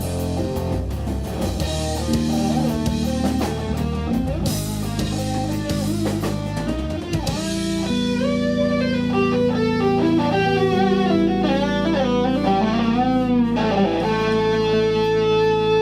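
Live instrumental rock-fusion band with electric guitar, bass and drums playing. About halfway in, the texture thins and the guitar carries a melody of bent, wavering notes, ending on a held note near the end.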